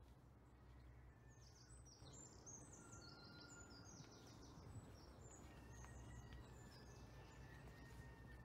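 Faint songbird singing from the trees: quick, high chirping phrases in the first half, with a few thin whistled notes later. Under it runs a steady low rumble of outdoor background noise.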